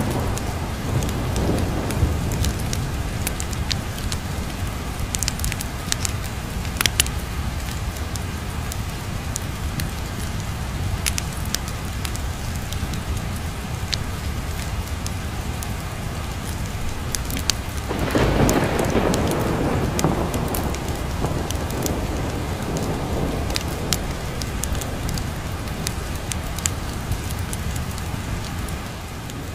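Steady heavy rain with a low rumble of thunder swelling about two-thirds of the way through. Sharp crackles and pops from a wood fire are scattered throughout.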